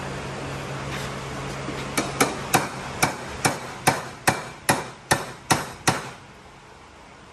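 Small tapping hammer striking the stainless steel exhaust pipe about eleven times, a little over two blows a second, each with a short metallic ring, to knock the out-of-round pipe end back into round.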